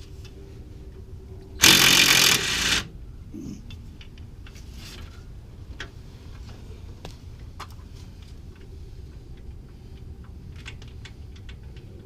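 A power tool runs in one loud burst of about a second, starting a couple of seconds in. Scattered light clicks and metal knocks of hand tools follow.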